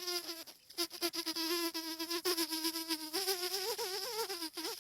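A man imitating a buzzing insect such as a mosquito or fly with his voice: a steady hum that wavers in pitch from about three seconds in.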